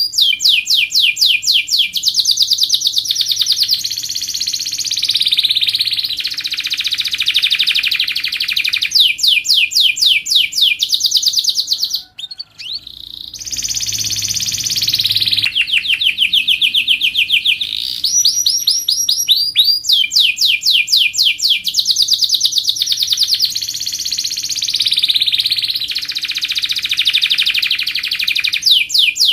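Domestic canary singing a long song of fast trilled phrases, each a rapid run of repeated high notes, one phrase after another. There is a brief break about twelve seconds in.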